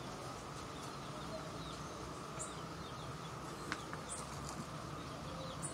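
Quiet outdoor background: a steady faint hiss with a few short, high bird chirps scattered through it and a single small tick about two thirds of the way in.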